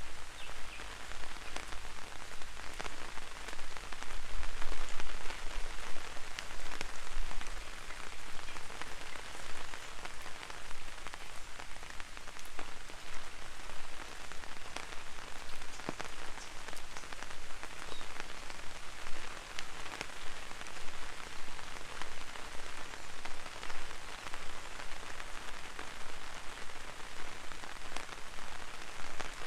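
Gentle rain falling on an umbrella overhead, a steady hiss with many separate drop ticks scattered through it. A low rumble sits under it for the first several seconds.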